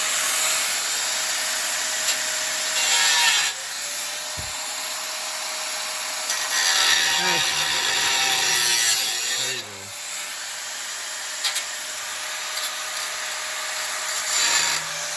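Electric angle grinder running and grinding down a weld on steel in several passes. Its hiss grows louder while the disc is on the metal, and the motor's pitch dips and recovers twice as it bites.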